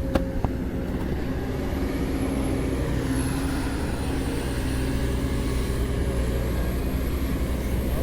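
Heavy diesel engine running steadily, a continuous low drone, with a couple of brief clicks in the first half second.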